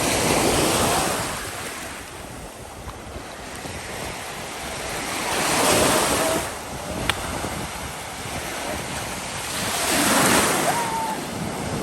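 Small lake waves washing onto the shore, swelling and breaking three times about every four to five seconds. Wind buffets the microphone with a low rumble.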